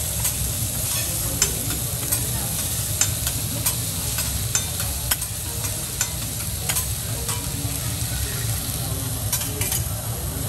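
Chicken and diced vegetables sizzling on a hot steel teppanyaki griddle, with the chef's metal spatulas scraping and clicking against the plate a dozen or so times, over a steady low hum.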